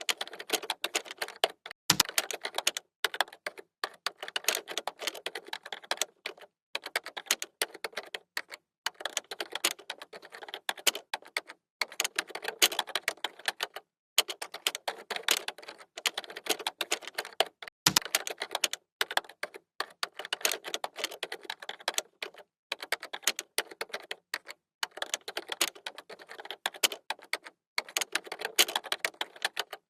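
Computer keyboard typing: rapid runs of key clicks in bursts of a second or two with short pauses between, and a heavier keystroke, such as the space bar or enter key, twice.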